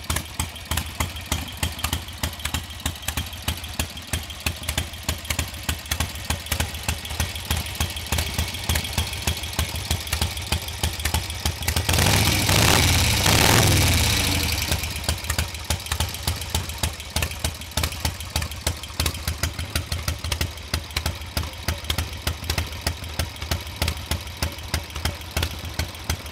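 Vintage Indian flat-track racing motorcycle engine idling with a slow, regular beat of a few pulses a second. About halfway through, the throttle is blipped once: the engine rises in pitch and gets louder, then drops back to idle.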